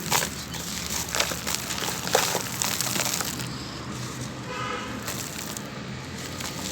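Grainy sand-cement chunks crumbling in water, a dense run of small crackles and crunches.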